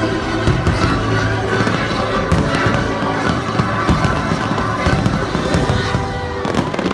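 Fireworks bursting in many irregular bangs over loud music played through a sound system.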